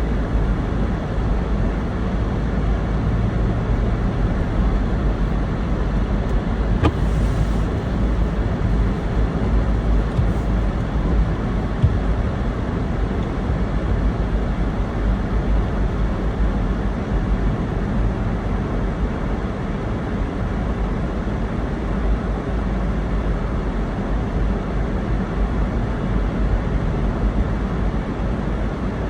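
Steady road and engine noise of a car driving, heard from inside the cabin, with two brief clicks a few seconds apart.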